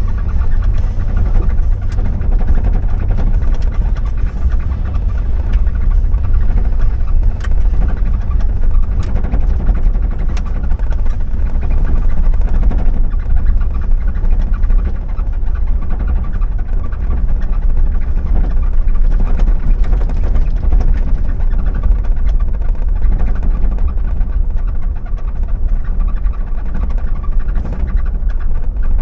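Car driving, with a steady low engine and road rumble and scattered small ticks and rattles, mostly in the first half.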